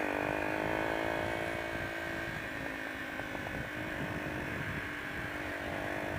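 Honda XR125's single-cylinder engine running at an even speed under riding noise. Its note dips slightly at the start and steps down a little about two seconds in.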